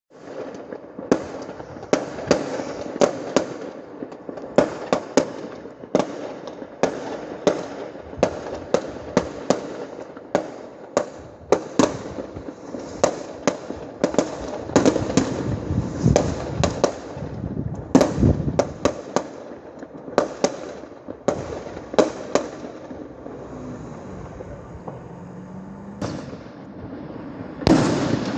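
Fireworks going off in quick, irregular bangs, dozens of them one after another, with a loud rushing hiss near the end.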